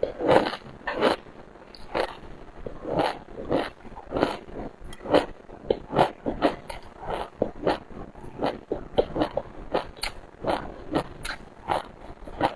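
Close-miked eating of seafood: a steady run of wet bites and crunching chews, two or three a second.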